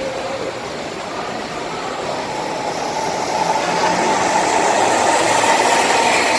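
A large bus passing close by, its engine and tyre noise growing louder over the last few seconds.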